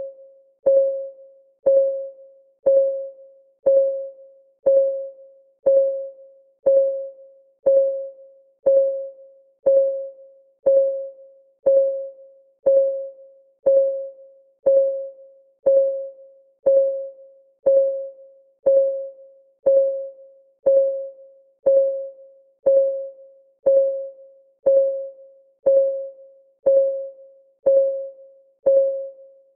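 Clock ticking sound of a countdown timer, one tick a second. Each tick is a short click with a brief mid-pitched ring that fades fast.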